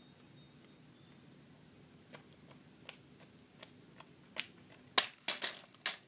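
Cricket trilling in one steady high note that breaks off briefly and then stops, with a few faint ticks. Near the end come four sharp, loud knocks.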